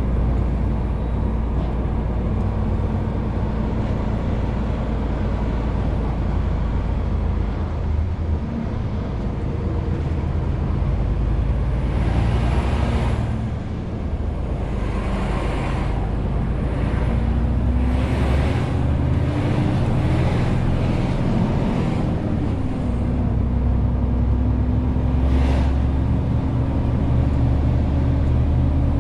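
Renault T520 truck's diesel engine running steadily while pulling a 40-tonne load. Its note rises for a few seconds past the middle, then drops and settles lower. Several short hisses come through, the last and sharpest near the end.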